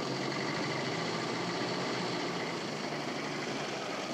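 An old car's engine running steadily as the car drives along, heard from inside the cabin.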